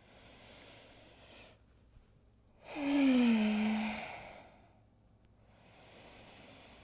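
A woman taking slow, deep breaths: a quiet inhale, then a long, audible sighing exhale with her voice falling in pitch about three seconds in, then another quiet inhale near the end.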